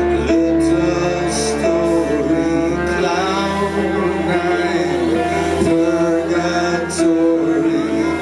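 A live band plays an instrumental passage: long held notes move between pitches over a sustained low bass note, which drops to a new note about three seconds in.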